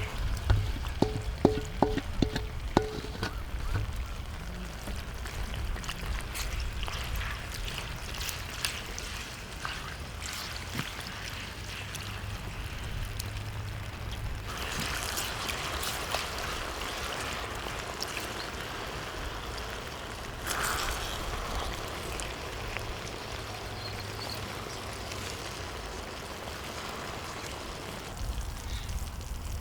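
Chicken dak-galbi frying on a cauldron-lid griddle in a steady sizzle. Several sharp metal clinks come in the first three seconds, and the sizzle swells about fifteen seconds in and briefly again about twenty seconds in.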